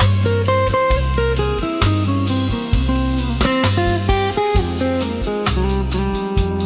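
Instrumental smooth jazz: a plucked guitar playing a quick run of single notes over a bass line, with a drum kit keeping time.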